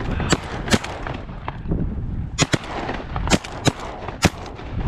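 A volley of shotgun blasts from several goose hunters firing at once: two shots in the first second, then four or five more in quick succession about halfway through.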